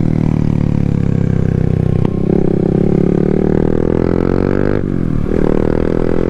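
Yamaha MT-07 parallel-twin engine running while riding. The pitch falls slowly, jumps up about two seconds in and climbs, then drops sharply near five seconds and rises again as the revs change.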